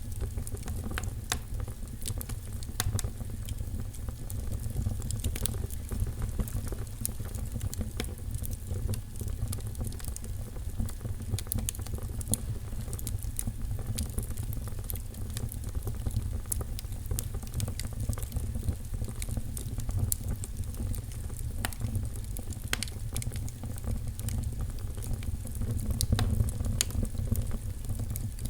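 Fire crackling in a fireplace: scattered sharp pops and crackles over a steady low rumble.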